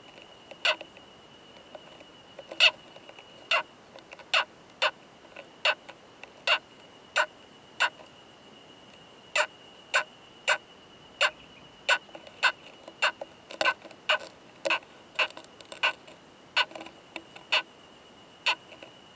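Male Ō-madara-kokunusuto bark-gnawing beetle making sharp, loud 'kan kan kan' clicks during mating behaviour, about thirty in all, spaced irregularly around one every half second, a few coming in quick pairs. A faint steady high tone runs underneath.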